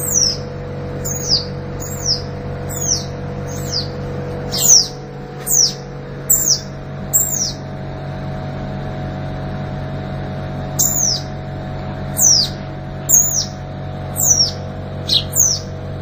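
Fledgling bird calling: short, high, thin chirps that each drop sharply in pitch, repeated one or two a second, with a pause of about three seconds midway. A steady low hum runs underneath.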